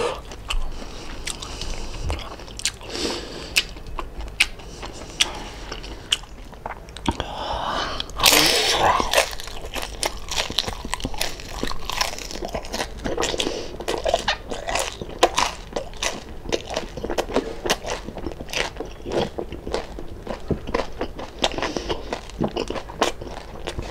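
Close-miked chewing and crunching of crispy deep-fried pork belly (lechon kawali): a dense, irregular run of sharp crunches. One longer, louder burst of noise about eight seconds in.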